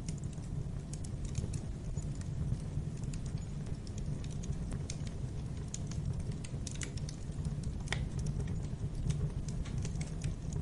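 Wood fire in a fireplace crackling, with irregular sharp snaps and pops over a steady low rumble.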